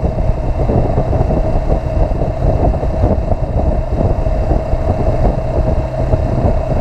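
Motorcycle engine running at a steady cruising speed, with heavy wind rumble on the microphone.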